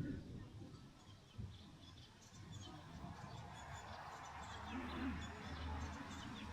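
Faint outdoor ambience: small birds chirping in short, high notes from about two seconds in, over a low rumble.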